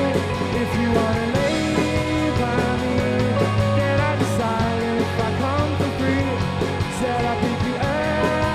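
Indie rock band playing live: electric guitars over bass and drums with a steady beat, with no lead vocal.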